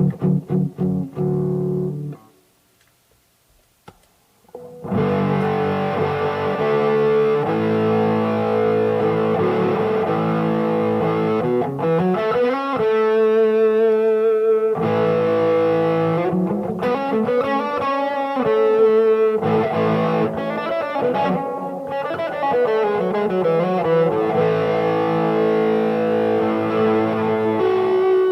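Electric guitar played through distortion: a few notes, a pause of about two and a half seconds, then sustained overdriven chords and lead lines with bent notes.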